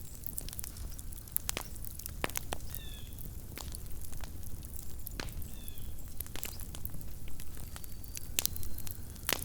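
Wood campfire crackling, with irregular sharp pops and snaps over a low rumble. A short high chirp comes twice, about three seconds in and again past five seconds.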